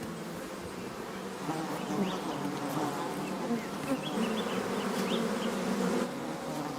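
A swarm of bees buzzing steadily around their nest, a dense continuous hum, with a few short high chirps over it.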